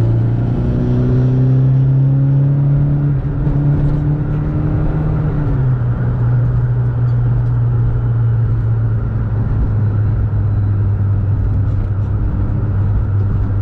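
VW Mk2 Golf 16-valve four-cylinder on motorcycle carburettors pulling at wide-open throttle. The revs climb, step down once near the start as a gear changes, and climb again. About five and a half seconds in it eases off to a steady lower drone.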